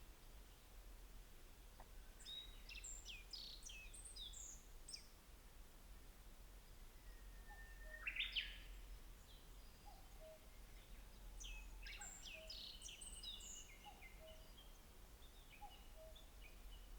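Wild songbirds singing faintly outdoors: two bursts of quick high twittering notes, one a couple of seconds in and another from about eleven seconds, with a louder single call about eight seconds in. Soft lower notes repeat now and then in the background, over a steady low hum.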